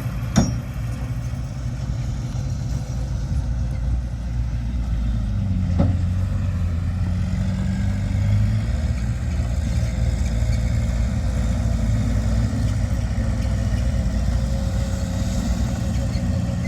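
Diesel engine of heavy earthmoving machinery running steadily under load, with the engine note changing a little near the middle. A sharp knock about half a second in and a lighter one about six seconds in.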